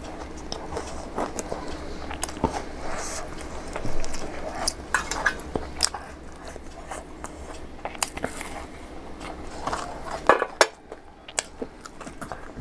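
Close-up eating sounds: crisp fried puri (golgappa) shells being bitten and chewed, an irregular run of crunches and mouth clicks, with a few louder knocks about ten seconds in.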